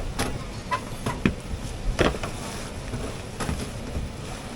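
Scattered sharp clicks and knocks of tools and a sheet-metal cover panel being handled and fitted back onto an air handler, over a steady background hum.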